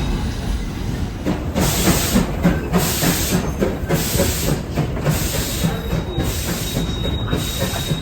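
Heritage train on the Zig Zag Railway running along the track: a steady rumble with rhythmic wheel beats, broken from about a second and a half in by repeated bursts of hiss. A faint, thin high squeal comes in near the end.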